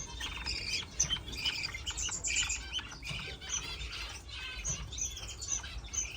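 Several English show budgerigars chirping and chattering, a busy run of short, high chirps that overlap one another.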